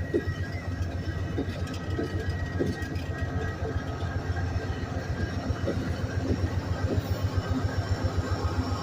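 Model train running on a layout: a steady motor hum with a rapid, even clicking of wheels over the track.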